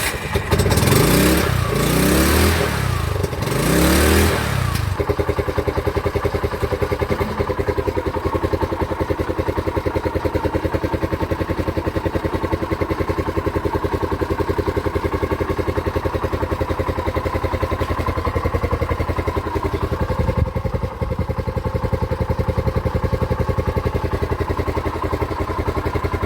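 TVS King LPG auto-rickshaw's single-cylinder engine, just started on a new spark plug, revved up and down three or four times, then settling to a steady, even idle.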